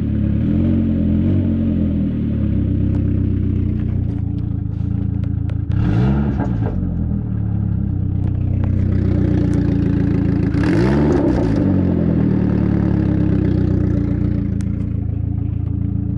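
Saab 9000 2.3 turbo four-cylinder engine idling with a leaking exhaust that sounds like a tractor, blipped briefly so its pitch rises and falls near the start, about six seconds in and about eleven seconds in.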